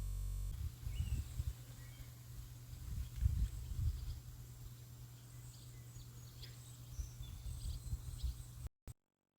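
Birds chirping in short, scattered calls over a steady low rumble; the sound cuts out briefly near the end.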